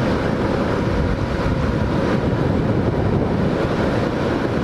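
Hawk 250 dual-sport motorcycle under way at steady road speed: engine running evenly under a rush of wind over the microphone.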